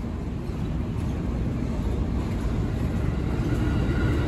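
JR 205 series electric commuter train (set 205-5F) approaching and drawing close, a low rumble of wheels on rails that grows steadily louder.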